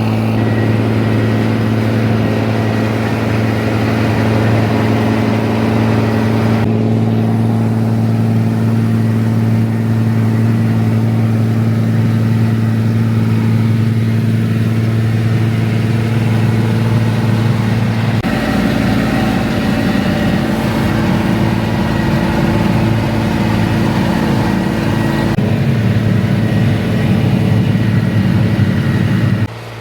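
Rába-Steiger 250 tractor's six-cylinder diesel engine running steadily at an even speed. About two-thirds of the way through its sound turns deeper and rougher, and it drops sharply in level right at the end.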